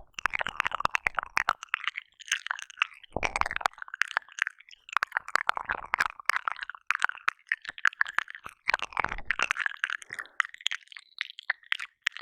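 ASMR mouth sounds: wet licking, smacking and clicking of lips and tongue close against a binaural ear microphone, in a rapid, continuous stream with two brief deeper rumbles, about 3 s in and near 9 s.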